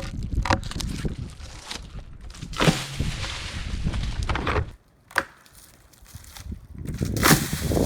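Wood cracking and splintering as cut tree limbs snap off, a popping snap. There is a loud crack with splintering about two and a half seconds in, a sharp snap about five seconds in, and another crack near the end.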